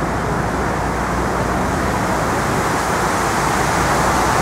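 Steady city traffic noise: a continuous wash of passing vehicles, growing slightly louder near the end.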